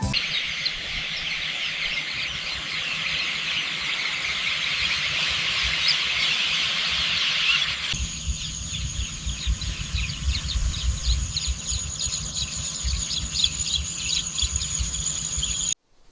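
Countryside ambience of a dense chorus of chirping birds; about halfway through it changes abruptly to a steady high insect drone with bird chirps over it, a low rumble beneath, before cutting off just before the end.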